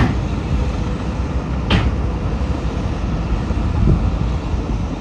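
Heavy earthmoving machinery, a bulldozer or dump truck, running steadily with a deep diesel rumble, and one sharp knock nearly two seconds in.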